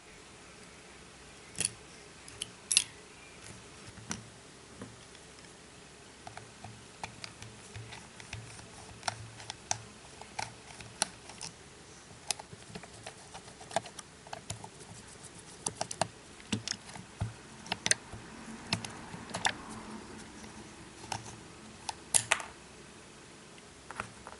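Irregular light clicks and taps of small tools and parts on a rugged smartphone as it is being taken apart, a few of them sharper and louder.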